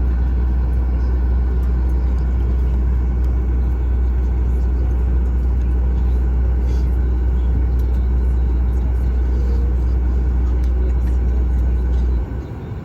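A loud, steady low rumble with a faint hiss above it, which drops away abruptly near the end.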